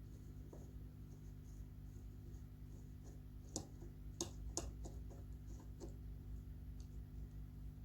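Small clicks and scrapes of hands and a tool working on a ceiling fan while its blades are being removed, with a few sharper clicks about halfway through, over a steady low hum.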